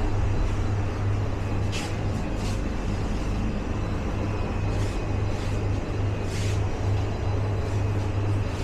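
Steady low machine hum with a broad rumble, with a few brief noises over it near two, five and six and a half seconds in.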